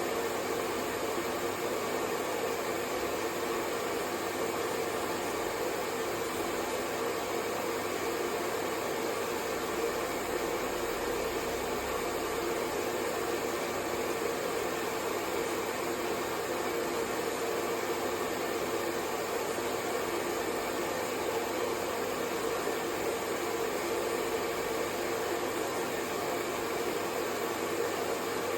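Hair dryer running steadily: an even rushing blow with a low hum, with no change in speed throughout.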